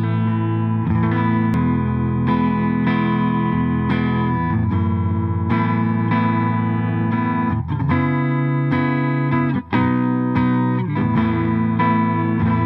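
Clifton dual-humbucker Telecaster-style electric guitar playing ringing chords that change every second or two, with sliding chord changes about eight seconds in and a brief break near ten seconds.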